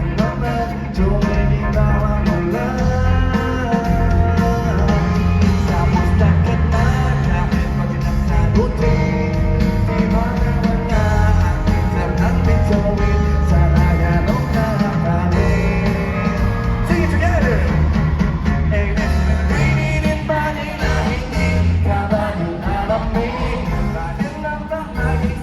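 Live band playing an upbeat pop-rock song with a sung lead vocal, bass and drums prominent, as heard at a concert.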